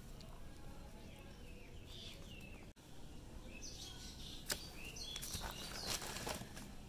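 Faint outdoor background with birds chirping: a few short chirps about two seconds in and again around five seconds in, plus a couple of sharp clicks.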